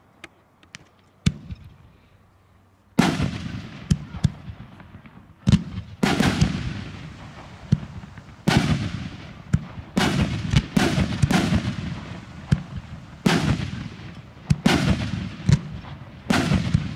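Aerial fireworks display: a few faint crackles, then about three seconds in shells start bursting in a rapid run of loud bangs, roughly one a second, each trailing a rumbling echo.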